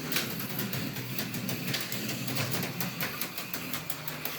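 AFX HO slot car running a lap on a plastic track: its small electric motor whirring steadily under a fast, uneven clatter of clicks and rattles as it runs along the rails.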